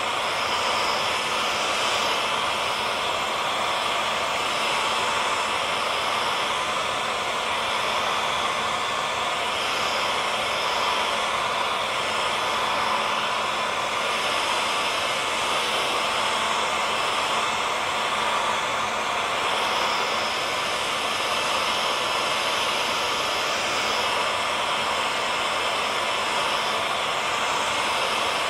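Electric hair dryer running continuously: an even rushing blow of air with a faint steady motor hum underneath, at a constant level.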